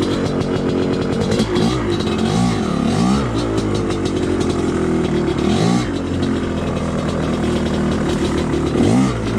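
Two-stroke dirt bike engine running under load on a trail, the throttle opened and closed repeatedly so the pitch rises and falls several times, with occasional knocks and clatter from the bike.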